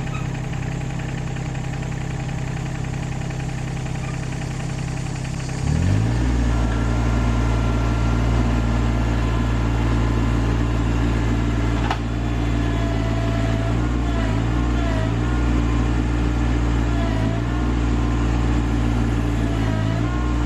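RK25 sub-compact tractor's diesel engine idling, then throttled up about six seconds in and running at a higher speed, its pitch sagging briefly several times in the second half.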